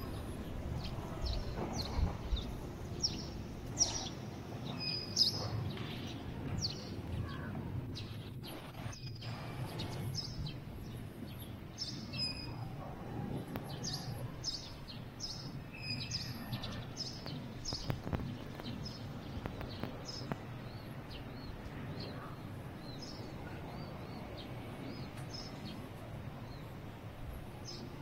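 Small birds chirping, short high chirps coming over and over in clusters, over a steady low background noise.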